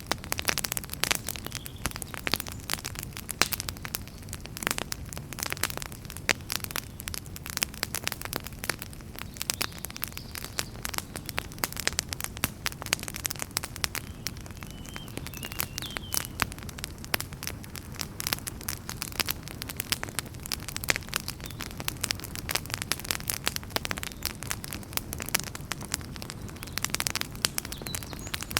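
Wood fire in a fireplace crackling: dense, irregular pops and snaps over the low, steady rush of the flames.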